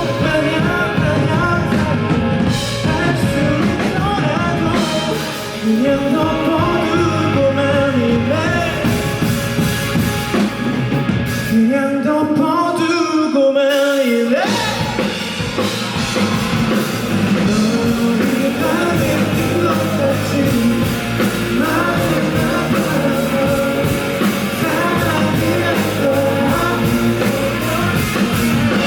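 Live rock band playing loudly, with drums, guitars and bass. The low end drops out briefly a little before halfway, then the full band comes back in.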